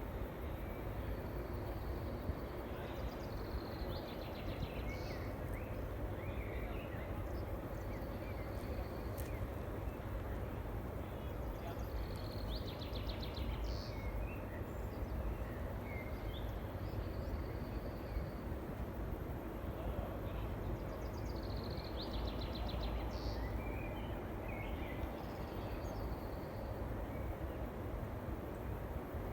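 Songbirds calling in a forest: bouts of short chirps, fast trills and a few drawn-out high notes recurring every several seconds, over a steady low background rumble.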